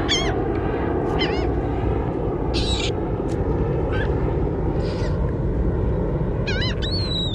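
Seagulls diving on shrimp give short, high, wavering calls every second or so, one longer call near the end, over a steady hiss of wind and water.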